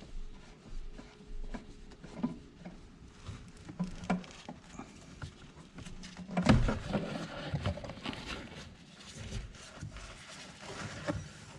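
Irregular clicks and knocks of a ratchet and socket on the plastic oil filter cap of a 3.6 Pentastar engine as the cap is loosened and lifted out by hand, with a louder clatter about six and a half seconds in.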